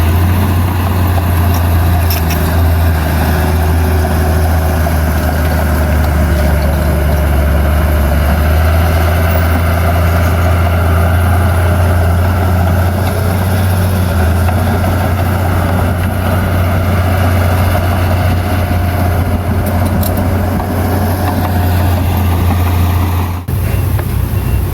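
Heavy diesel earthmoving machinery running steadily, a deep continuous engine drone. The sound breaks off abruptly about a second before the end and resumes with a slightly different low tone.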